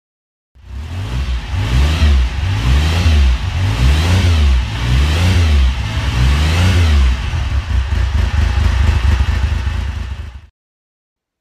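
Motorcycle engine revved in a series of about six throttle blips, roughly one a second, then running more evenly before cutting off abruptly.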